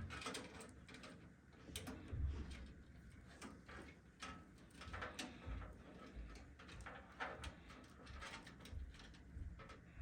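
Light clicks, rustles and small knocks of PC case wiring and plastic parts being handled, with a few soft low thumps.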